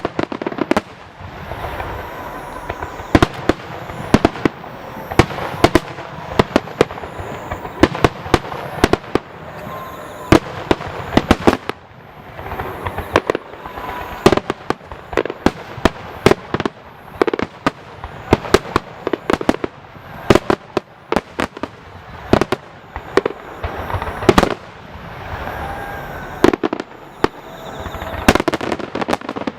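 Display fireworks shells bursting in a dense, near-continuous barrage of sharp bangs and crackles, many bursts a second at times.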